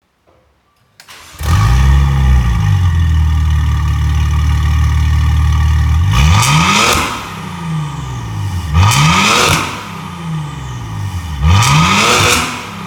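Maserati Levante engine through an EXHAUTECH valved aftermarket exhaust, started up: it catches, flares up briefly and settles into a steady idle. From about six seconds in it is revved three times, each a quick rising then falling blip about two and a half seconds apart.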